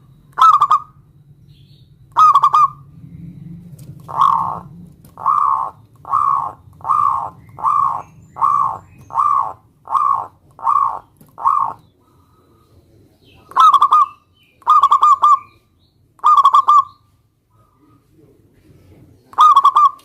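Zebra dove (perkutut) cooing. Two separate coos come first, then a run of about ten evenly spaced coos under a second apart, then four more coos with longer gaps.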